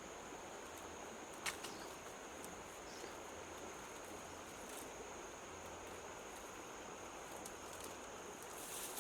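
Steady high-pitched insect drone over a soft forest hiss, with a sharp click about a second and a half in and a few faint ticks.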